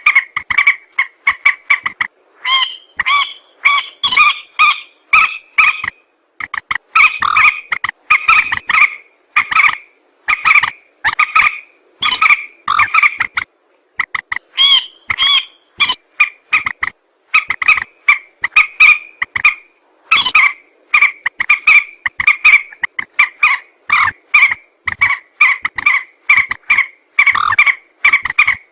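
Recorded calls of a mandar, a rail or gallinule, played as a bird-hunting lure: rapid runs of short, harsh, clucking notes repeated over and over, with brief pauses about six and fourteen seconds in.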